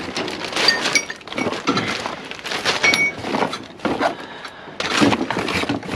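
Scrap metal and debris being handled in a dumpster: irregular clanks and clinks of metal pieces, a few briefly ringing, mixed with rustling.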